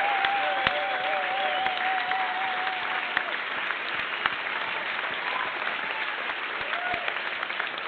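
Audience applauding, with whistles from the crowd: one long whistle is held for the first three seconds, and shorter ones come later. The clapping slowly dies down.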